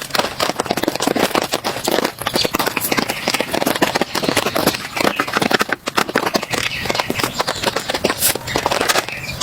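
Rain falling on a tent, a dense, irregular patter of many small sharp drop impacts.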